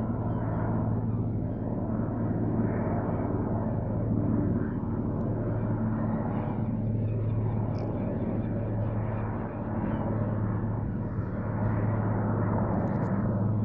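Helicopter flying, a steady drone with a strong low hum that swells and fades every few seconds.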